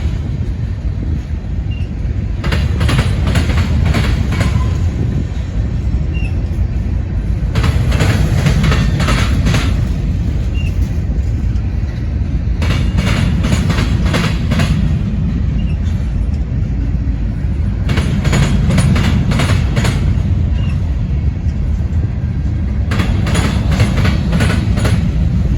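Freight train cars rolling past with a steady low rumble. Their wheels click over rail joints in groups about every five seconds as each car's trucks pass.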